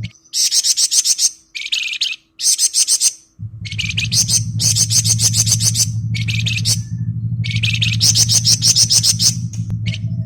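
A Flamboyan songbird sings its rapid, dense trill ('ngebren'). It delivers about seven short, high, buzzing phrases, each under a second, with brief pauses between them. A steady low hum runs underneath from about three and a half seconds in.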